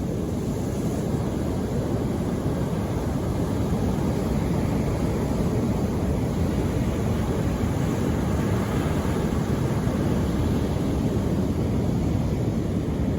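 Steady, low rushing noise of the sea, even throughout with no separate wave breaks.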